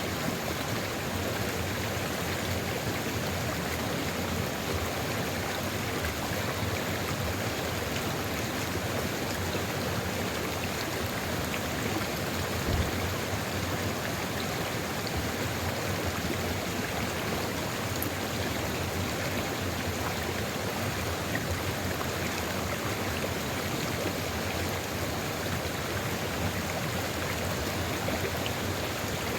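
Sulfur river water flowing steadily, an even, continuous rushing. A brief low thump comes about halfway through.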